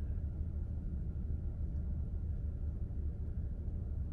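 Steady low rumble inside a car cabin from the engine idling while the car stands still.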